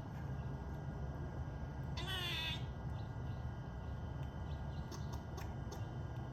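Grey squirrel giving one short, harsh call about two seconds in, over a steady low rumble. The owner says she calls unlike ever before and puts this down to the squirrel mating season.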